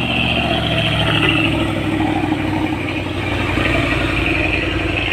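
Truck engine running steadily under load on the climb, with a steady whine over it.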